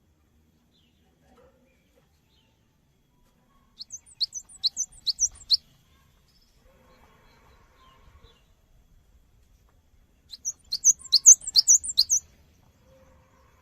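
Cinereous tit (gelatik batu) singing: two quick bursts of high, sharp repeated notes, the first about four seconds in and a louder, denser one about ten seconds in.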